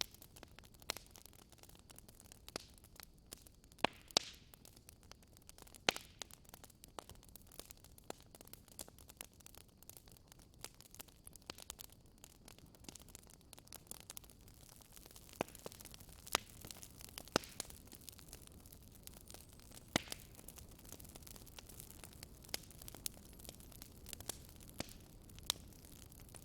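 Wood fire in a fireplace crackling: irregular sharp pops and snaps over a soft, steady hiss, with a few louder pops scattered through.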